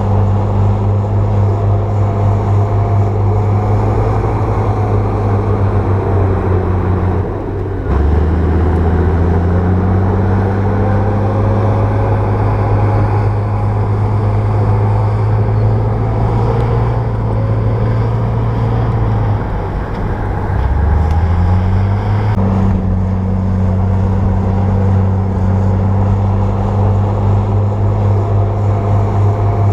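Bulldozer's diesel engine running loud and steady under work. Its note drops sharply and climbs back up twice, about a quarter of the way in and again about two-thirds in.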